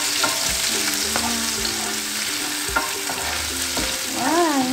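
Tomato, egg and shallot-garlic seasoning sizzling in hot oil in a pan as it is stirred, with a few sharp clicks of the utensil against the pan.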